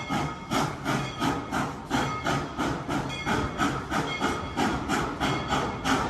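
Coal-fired steam locomotive giving off an even, rapid beat of steam puffs with hiss, about three or four a second.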